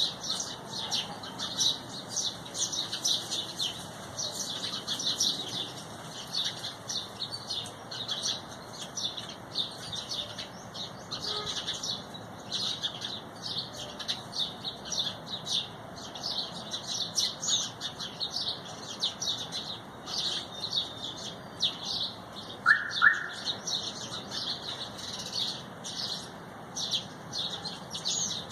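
A flock of small birds chirping continuously, many short high chirps overlapping into a busy chatter. About two-thirds of the way through, one louder, lower double chirp stands out.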